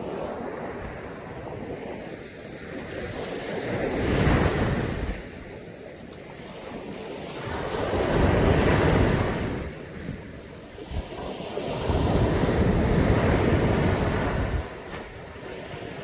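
Caribbean Sea surf breaking and washing up a beach, swelling three times about four seconds apart, with wind buffeting the microphone.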